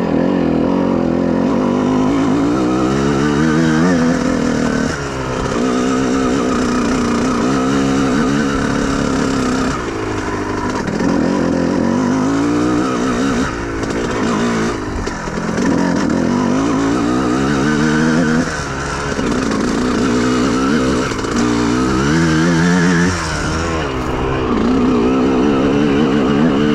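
Honda CR125R's 125 cc two-stroke engine being ridden. Its pitch climbs and drops over and over as the rider works the throttle, and it falls away briefly every few seconds.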